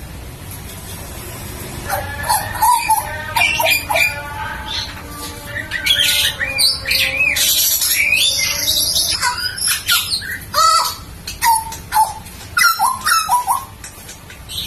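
Hooded butcherbird singing loudly: a varied run of fluty whistles with rising and falling glides, broken by harsh, scratchy notes, starting about two seconds in.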